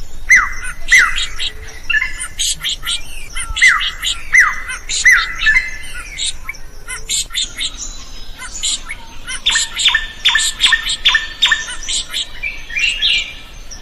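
Drongo singing busily: a dense run of sharp chirps and squawks with short downward-swept whistles, and a quick string of repeated notes in the second half.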